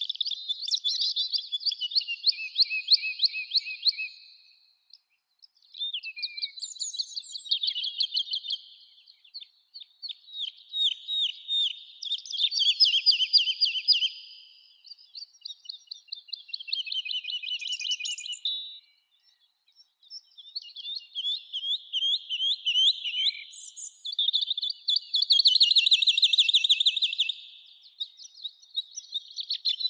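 A songbird singing in a run of phrases of fast, trilled notes, each phrase lasting a few seconds, with brief pauses between them, about seven phrases in all.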